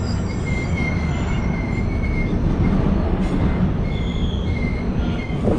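Himsagar Express passenger train running on the rails: a steady low rumble of wheels and coaches, with a thin high wheel squeal that comes and goes.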